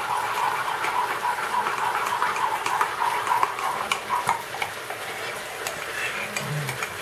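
Steady crackling sizzle of food frying in a pan, with a thick milk-and-starch mixture poured from a cup into a bowl of chopped chicken mince about halfway through.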